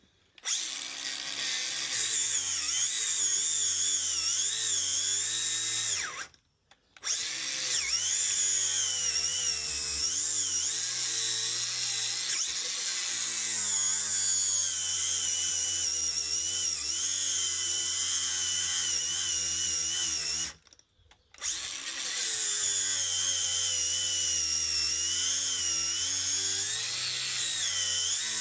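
Handheld power tool cutting through an old tractor tyre. It runs in three long bursts with two brief stops, and its high whine wavers up and down in pitch as it loads and unloads in the rubber.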